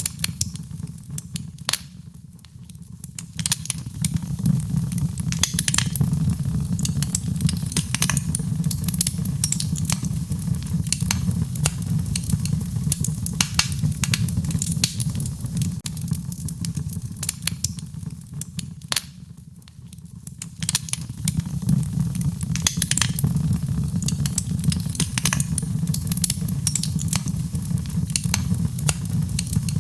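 Wood fire in a fireplace crackling, with frequent sharp pops and snaps over a steady low rumble of flames. The sound dips briefly twice, about two seconds in and again near the middle.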